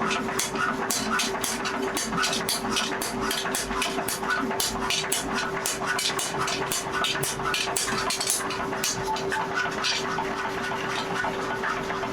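Rapid, evenly spaced strikes, about four a second, over a steady machine hum, as of leaf-spring steel being worked under a power hammer.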